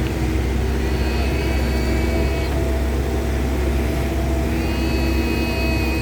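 Excavator's diesel engine running steadily, with a thin high whine that comes in twice.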